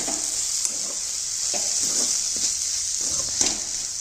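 Green masala paste frying in oil in a metal kadhai with a steady sizzle, stirred with a metal spatula that scrapes against the pan several times.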